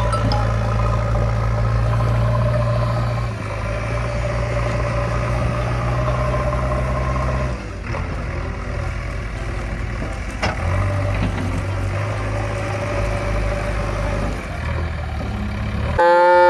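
Vehicle engine running steadily at idle, a low hum with mid-pitched tones that drops away about halfway through and comes back a few seconds later. Right at the end a loud pitched call begins.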